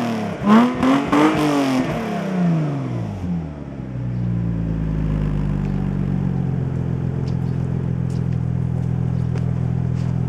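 Volkswagen Passat B5 2.8 V6 through a custom exhaust: the tail of one rev falling away, then another quick blip of the throttle that rises and falls, then the engine settling into a steady idle about three seconds in.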